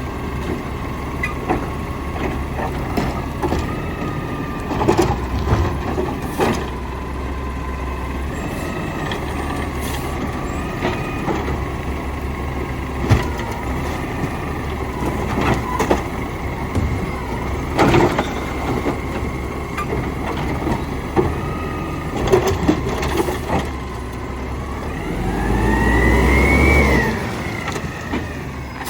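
Garbage truck engine running steadily while trash is loaded, with scattered knocks and bangs. Near the end the engine revs up for a couple of seconds with a whine that rises and falls.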